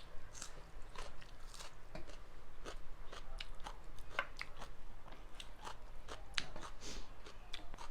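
Close-up chewing and eating sounds: irregular crunches and wet mouth clicks, a few each second.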